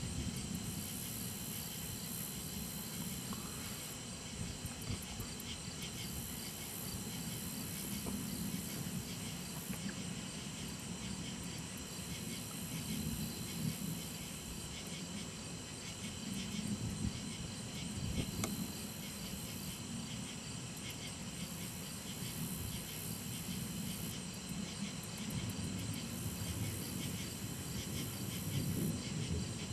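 Steady chorus of crickets and other insects, with a high trill that comes and goes every few seconds, over a low rumble of distant thunder that swells and fades.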